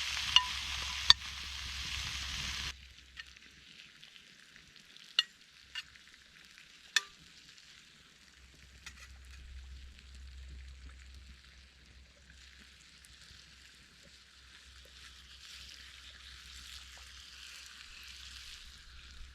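Kolbullar batter and pork frying in a pan over a campfire: a sizzle, loud for the first few seconds, then dropping suddenly to a fainter sizzle, with a few sharp pops.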